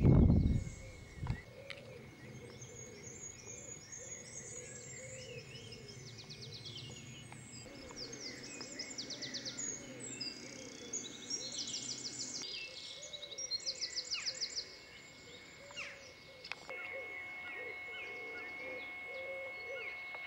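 Several songbirds singing, with quick rapid trills and chirps overlapping, busiest in the middle. A brief low thump at the very start.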